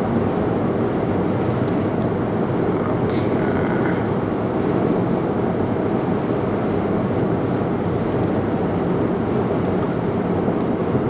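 Steady road and wind rumble of a car driving at speed, heard from inside the cabin.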